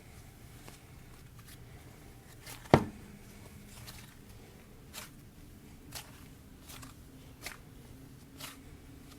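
Soft, stringy slime being worked by hand, giving small sticky clicks every second or so, with one loud sharp knock about three seconds in.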